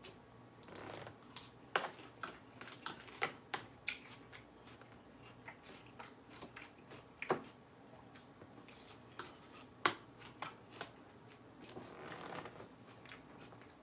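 Close, faint chewing of crunchy salad lettuce: irregular sharp crunches and wet clicks, with short stretches of steady crunching about a second in and near the end.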